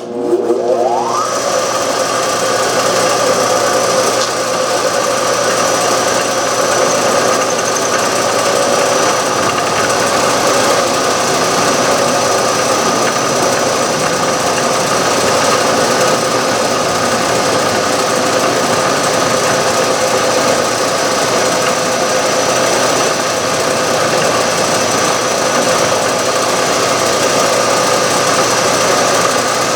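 A milling machine fed through a three-phase converter spins up with a rising whine in the first second, then runs steadily while milling a slot in a band-iron tool rest.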